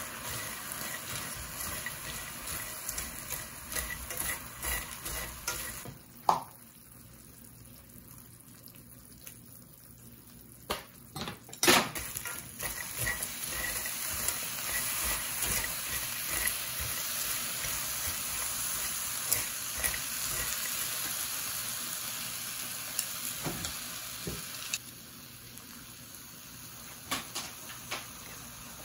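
Dried shrimp and pecans sizzling in oil in a stainless steel pan as they are stir-fried with chopsticks, with sharp clicks of the chopsticks against the pan. The sizzling drops away about six seconds in and comes back strongly about twelve seconds in.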